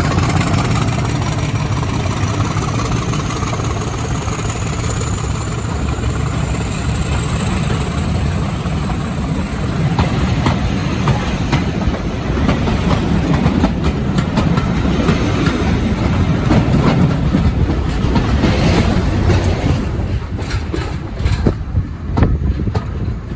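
Diesel locomotive-hauled train running, with a steady low engine drone and a high whine that rises in pitch over the first several seconds. Then comes a long run of wheel clicks over the rail joints, and the sound thins out near the end.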